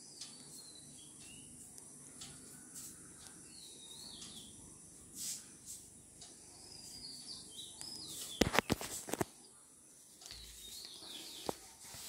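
Faint birds chirping in the background, short wavering high calls several times over, with a quick run of sharp clicks a little past the middle that is the loudest sound.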